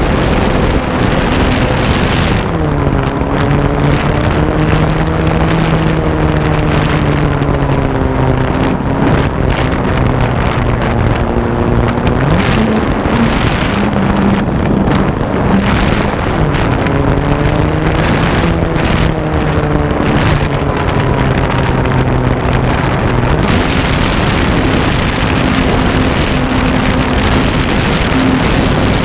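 Electric motor and propeller of an RC airplane in flight, heard from the on-board camera under heavy wind noise on the microphone. The motor's pitch falls and rises several times as the throttle changes, then holds steady near the end.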